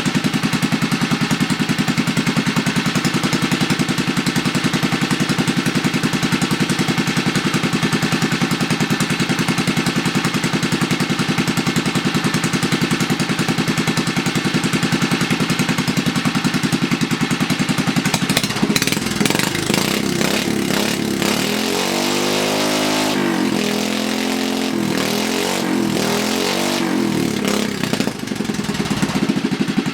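Briggs & Stratton 3 hp single-cylinder four-stroke engine idling steadily through a homemade header pipe. About two-thirds of the way through it is revved up and down several times, then drops back to idle just before the end.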